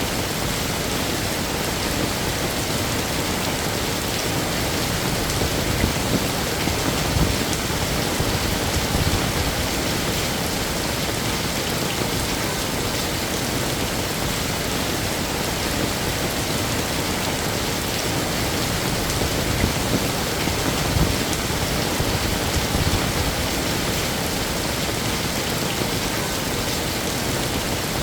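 Heavy rain falling steadily, a dense even hiss of drops hitting surfaces, with a few brief heavier splashes or gusts here and there.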